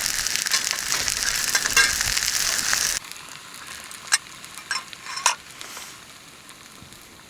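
Food sizzling and frying in a pan, a dense steady hiss that cuts off abruptly about three seconds in. After that it is much quieter, with a few sharp snaps like burning firewood.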